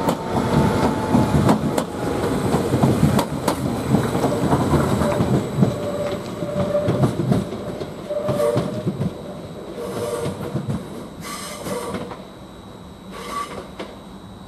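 Greater Anglia Class 755 multiple unit moving past and away over the station pointwork: heavy rumble with sharp wheel clicks over rail joints, then brief wheel squeals as the sound fades in the second half.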